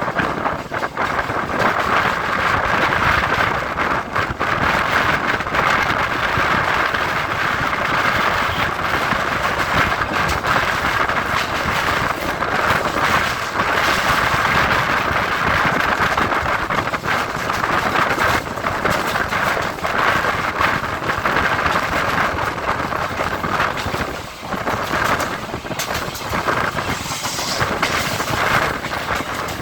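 Electric multiple-unit local train running, heard from on board: a steady rush of wheel-on-rail and air noise with frequent small clicks, and a brief higher hiss near the end.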